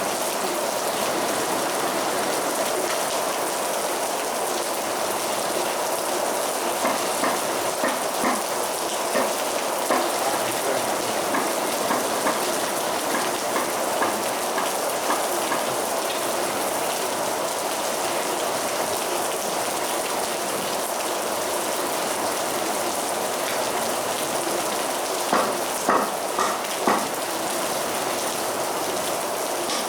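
Heavy rain falling steadily, a dense even hiss with louder drops splashing close by now and then, three in quick succession near the end.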